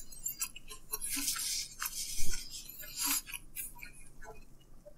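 Quiet chewing and mouth sounds of a person eating pizza: scattered small clicks and wet smacks, with a single thump about two seconds in.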